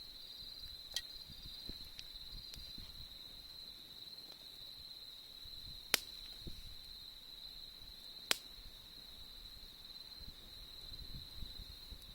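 Autumn insects trilling steadily at a high pitch over a campfire crackling softly. The fire gives a faint pop about a second in and two sharp pops midway.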